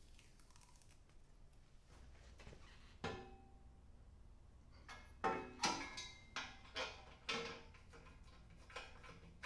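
Metal parts clanking with a short ring after each knock, from exhaust headers being handled and fitted: one knock about three seconds in, then about half a dozen more in quick succession over the next few seconds.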